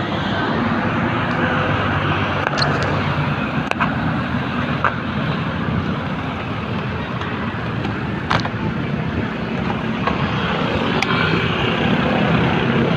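Steady rushing road and wind noise of a bike coasting downhill, with a few sharp clicks scattered through it.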